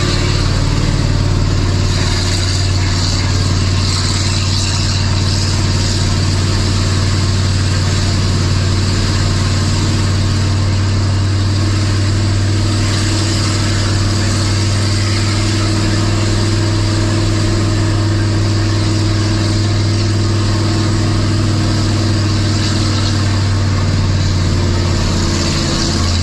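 Nissan Diesel RH10 V10 diesel engine of a Big Thumb truck running loud and steady at constant revs, pulling a 25-tonne load uphill.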